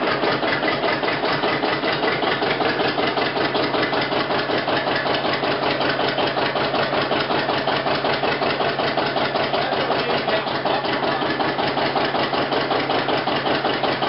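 John Deere 730 diesel tractor's two-cylinder engine running steadily with an even, rapid beat.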